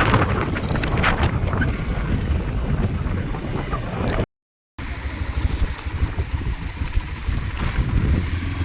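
Wind buffeting the microphone while on the move, a dense rumble with a few clicks. It drops out to silence for about half a second roughly halfway through.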